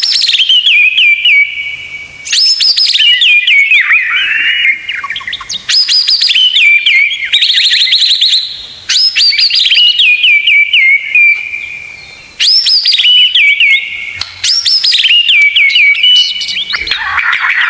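White-rumped shama song from a masteran tutor recording: loud phrases repeating every two to three seconds, each a quick sweep up to a high whistle followed by a run of rapid sharp notes. A harsher rattling call comes near the end.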